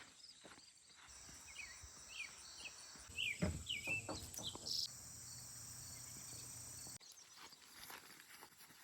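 Insects droning steadily at a high pitch, with a few short bird chirps in the first half. The drone cuts in about a second in and cuts off about two seconds before the end.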